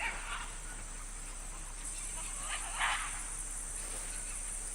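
Rainforest ambience: a steady, high-pitched insect drone, with a short animal call about three seconds in.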